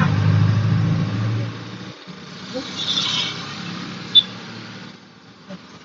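A motor vehicle's engine running close by and fading away over the first two seconds, leaving quieter road ambience. A single sharp click comes a little after four seconds in.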